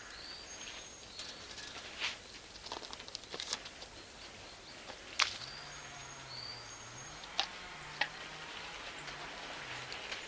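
Charcoal and wood fire crackling, with irregular sharp pops from the Iwate cut charcoal bursting; the loudest pop is about five seconds in. Short high bird chirps come and go in the background.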